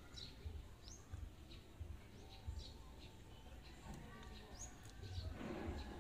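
Small birds chirping faintly in the background, with short high chirps scattered through, over a low uneven rumble. There is a brief rustling noise near the end.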